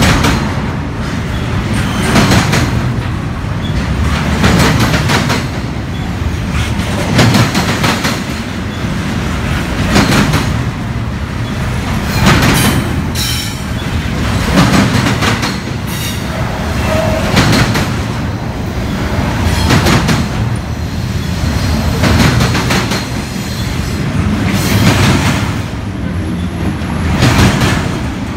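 Double-stack intermodal container train rolling past at close range: the steel wheels of the well cars clack over the rail joints in clusters every two to three seconds as each set of trucks goes by, over a steady rumble.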